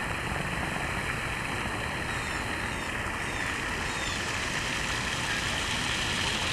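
Steady outdoor background noise, like wind or distant traffic, with a few faint, short high chirps of small birds in the middle.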